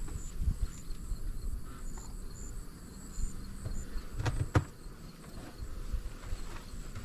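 Insects chirping in a steady high-pitched trill with short repeated pulses, over a low rumble, with two sharp knocks about four seconds in.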